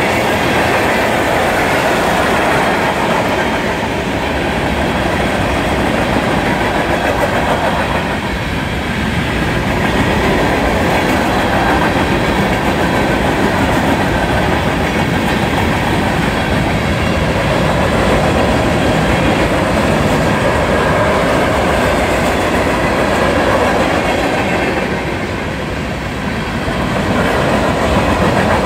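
Freight cars of a Union Pacific manifest train rolling past at close range: a steady, loud rumble and clatter of steel wheels on the rails, dipping briefly a few times as the cars go by.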